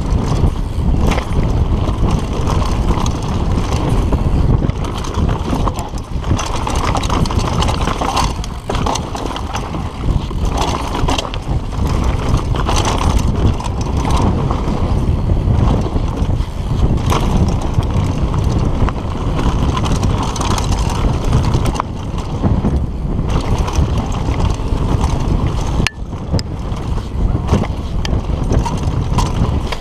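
Wind buffeting the camera microphone and knobby tyres rumbling over a dirt trail during a fast downhill mountain-bike run, with frequent knocks and rattles as the bike hits roots and bumps.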